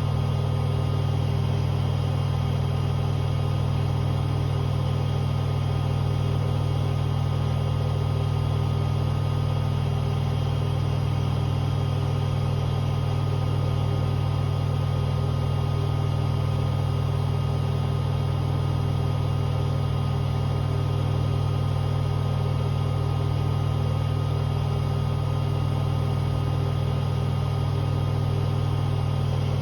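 Hoover H-Wash 500 washing machine on a spin-only cycle set to 1600 rpm, its drum spinning at speed with a loud, steady motor hum and whine.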